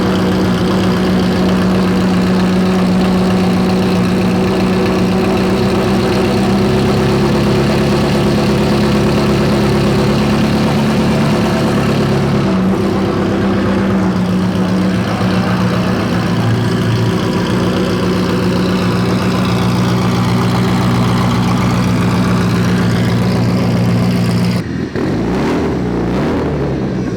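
A car engine idling loudly and steadily, its pitch dropping a little about halfway through. Near the end it gives way abruptly to a rougher, changing engine sound.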